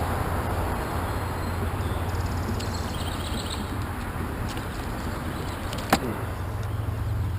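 Outdoor ambience with a steady low rumble and hiss, broken by one sharp knock about six seconds in.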